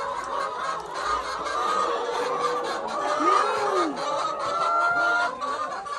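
Farmyard poultry, several birds clucking and calling over one another throughout, with an arching call about three seconds in.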